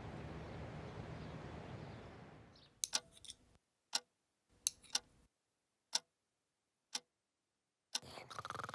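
A clock ticking about once a second in a quiet room, after a sound dies away over the first couple of seconds; another sound starts near the end.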